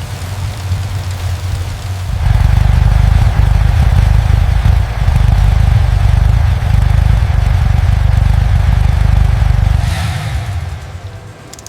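Suzuki Hayabusa superbike engine running, getting much louder about two seconds in as it is revved and held up, then dying away near the end.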